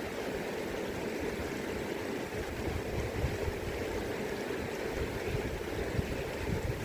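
River current flowing steadily, an even rushing of water, with an uneven low rumble of wind underneath.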